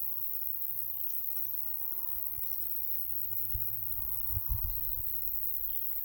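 High-pitched, steady chirring of summer meadow insects, with a few faint short bird calls scattered through it. Wind bumps on the microphone make low thuds once in the middle and a few times soon after.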